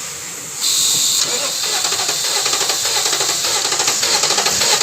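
Starter motor cranking a 2011 Toyota Land Cruiser's 5.7 L 3UR-FE V8 without it firing, during a compression test of the number 3 cylinder. It begins about half a second in with a brief hiss, then runs in an even, quick pulsing rhythm.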